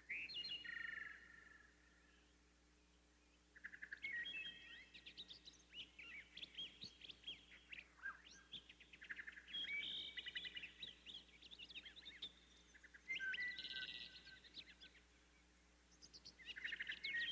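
Faint songbirds chirping and singing in quick runs of high notes, in several bursts separated by short pauses.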